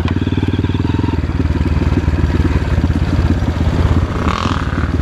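Dirt bike engine running steadily under power, with fast even firing pulses.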